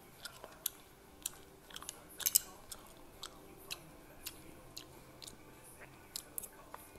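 Close-up chewing and biting of crispy Korean fried chicken: irregular sharp crunches and crackles, loudest in a cluster about two seconds in.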